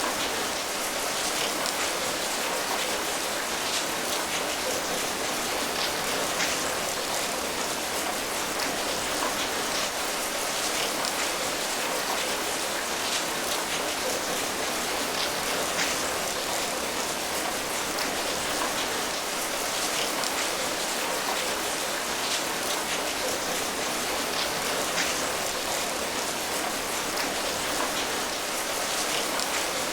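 Steady rain falling, a constant hiss of rain with many small drop patters on a surface.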